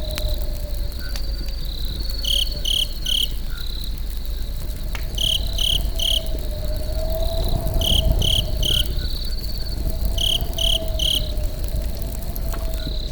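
Campfire crackling with a steady low rumble and scattered pops, under crickets chirping: a continuous high trill plus a high three-note chirp that repeats about every two and a half seconds.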